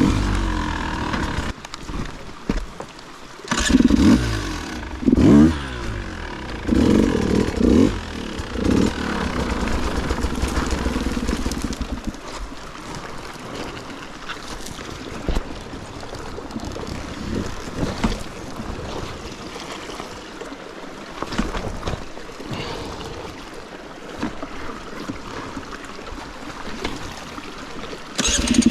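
Dirt bike engine revving in repeated short bursts, its pitch climbing and dropping several times in the first third. It then runs at lower revs with scattered knocks, and revs again near the end.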